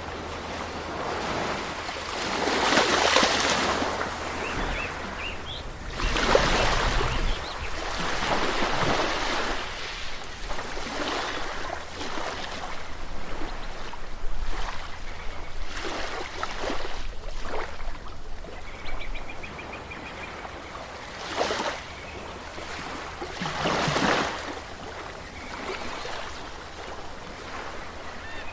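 Waves washing onto a shore, each one swelling into a rush and falling away every few seconds.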